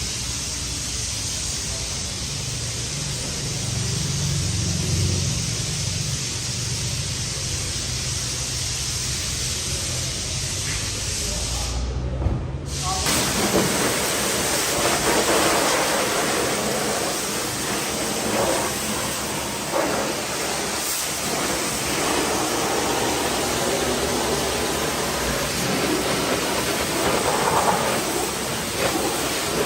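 Pressure washer spraying water: a steady, loud hiss, with a short break about twelve seconds in, after which the spray sounds rougher and more uneven.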